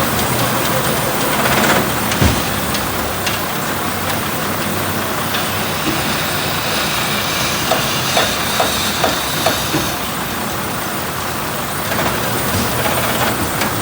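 A heavy truck running with a steady rumble, with a sharp knock a couple of seconds in and a quick run of short knocks or rattles around the middle.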